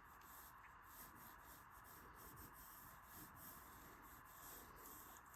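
Faint pencil strokes scratching on paper, light and irregular, over a low steady hiss.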